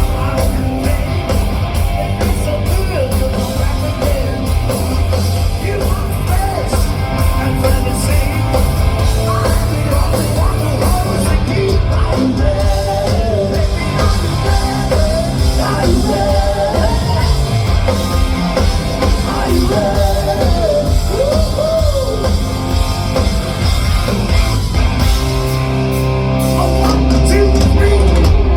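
A live rock band playing loud, with a drum kit and distorted electric guitars and a lead line bending in pitch over them. The low end grows heavier and louder near the end.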